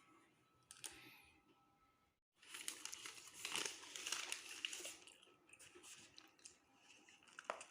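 Quiet crinkling and rustling with a few light clicks, loudest for a couple of seconds after a brief cut to silence, then fading to softer rustles.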